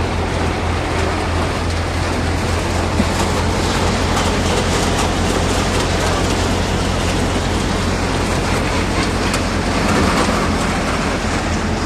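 Tractor-driven groundnut threshing machine running steadily: a constant low engine hum under a dense rattle from the machine.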